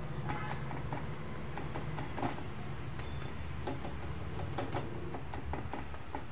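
Soft, irregular taps and clicks as a bare hand presses and pats a jowar bhakri on a tava, with the bangles on the wrist clinking, over a steady low hum.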